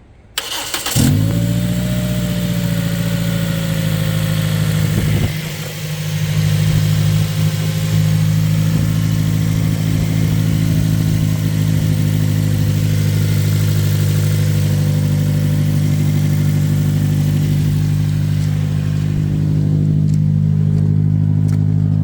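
Toyota Corolla Fielder ZRE142's 1.8-litre 2ZR-FE four-cylinder engine cranked by the starter and catching within about a second. It then runs at a steady idle, with a short dip in level around five seconds in.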